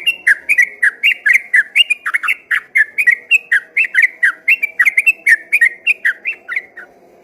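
Yellow-vented bulbul (trucukan) singing a long, rapid run of chirping whistled notes, about four to five a second, which stops shortly before the end.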